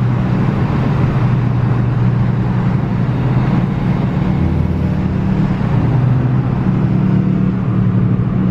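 Muffler-deleted Subaru Impreza 2.5 RS flat-four engine droning steadily while driving, its pitch shifting only slightly with no sharp revs.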